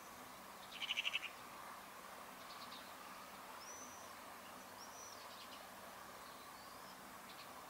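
Wild birds calling over a steady outdoor background hush: a short, rapid chattering trill about a second in, the loudest sound, followed by a few brief arching whistled notes.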